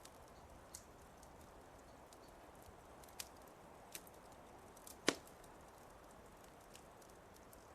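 Wood fire crackling softly: scattered sharp pops over a low hiss, with one louder snap about five seconds in.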